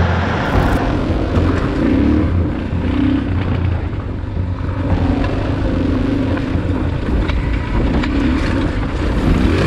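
Enduro motorcycle engine running under way, its pitch rising and falling with the throttle, over a steady rush of noise.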